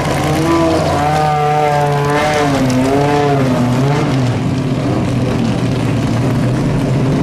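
Racing car engines running: a steady low engine note, with a second engine's note rising and falling in pitch twice about one to four seconds in.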